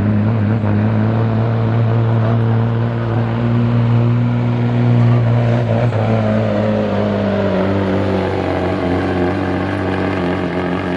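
Semi truck's diesel engine running hard and steady under heavy load while pulling a sled, its pitch holding nearly level and easing slightly in the second half.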